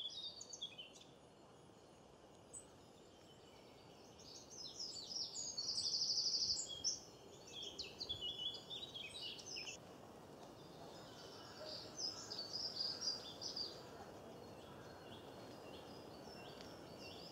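Small songbirds chirping and singing in short phrases over a steady low background noise of outdoor ambience, with a fast trill about six seconds in as the loudest call.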